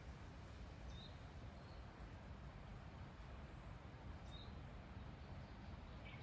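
Faint, brief bird chirps, four in all, over a low steady rumble of quiet rural background.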